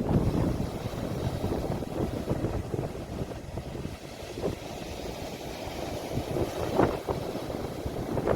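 Ocean waves breaking and washing in: a steady low rush of water with a few louder splashes, the loudest nearly seven seconds in.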